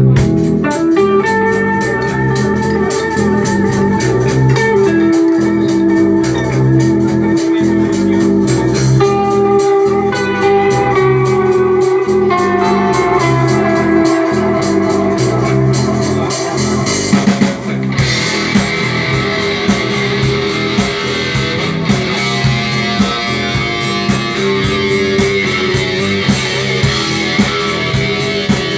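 Instrumental passage of a rock song: guitar over a steady beat, with held keyboard-like tones. About two-thirds of the way through, the sound gets fuller and brighter.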